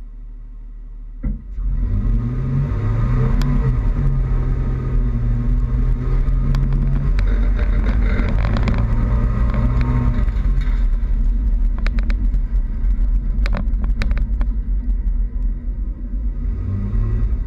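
Toyota Tacoma pickup engine pulling away about a second in and running through changing speeds, with a deep rumble and tyre and road noise from driving. A few sharp clicks near the end.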